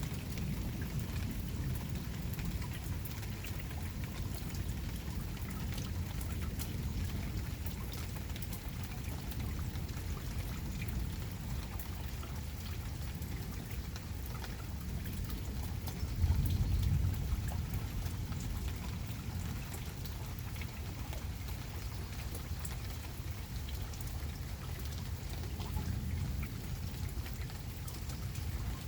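Steady rain falling, with drops pattering on surfaces. About halfway through, a low rumble swells for a couple of seconds and fades.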